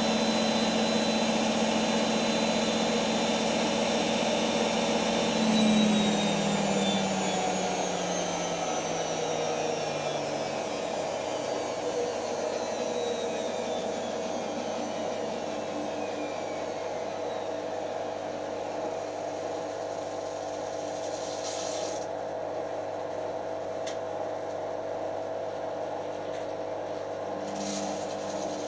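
Creda Simplicity W120VW top-loading washing machine spinning at speed with a high motor whine. About six seconds in, the drive cuts and the drum coasts down, its whine falling steadily in pitch, leaving a steady hum and a few clicks near the end. The motor struggles to deliver power smoothly; the owner thinks its brushes are fitted the wrong way round.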